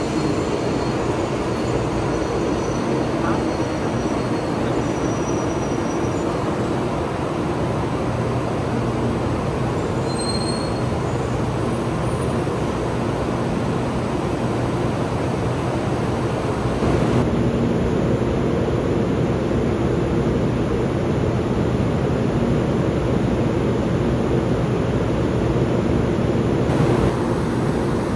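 Taiwan High Speed Rail 700T train easing to a stop at an underground platform, with faint high brake and wheel whistles early on. After that, a steady rumble and hum from the standing train and the station.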